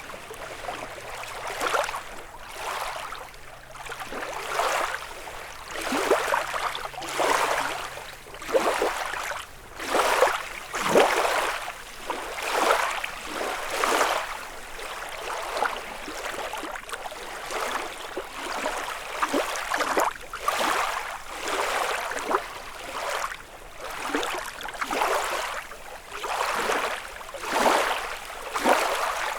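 Small waves lapping and washing on a lakeshore, one wash about every second or so, some stronger than others. A faint low hum sits underneath for the first eight seconds or so.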